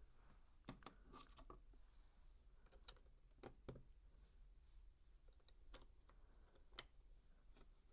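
Faint, scattered clicks of plastic LEGO bricks being handled and pressed together, with a few sharper clicks about three and a half seconds in and near the end.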